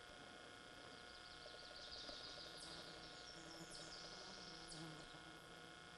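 Near silence: faint outdoor ambience, with a soft high chirring and a few light clicks in the middle.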